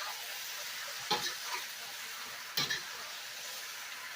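Pork, chicken, mushrooms and onion sizzling steadily in a hot pan as they are stir-fried, with a spatula scraping through the pan twice, about a second in and again past halfway.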